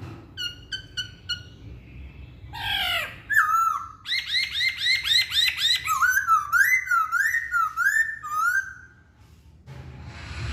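A Chinese hwamei (poksay Hongkong) singing a varied whistled song: a few short separate notes, a slurred phrase, a fast run of repeated notes, then looping rising-and-falling whistles, stopping about nine seconds in.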